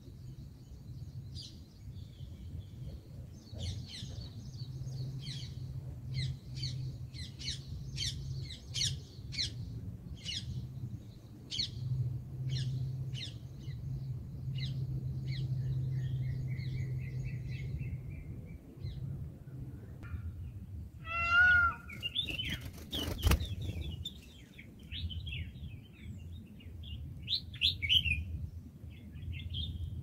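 Small birds chirping: quick series of short, high chirps, with a louder wavering call about two-thirds of the way through, a sharp knock just after it, and a steady low hum underneath.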